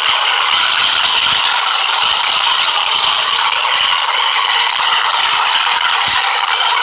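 New York City subway A train running through the station, a loud, steady noise of steel wheels on rails that sits mostly in the mid and high range.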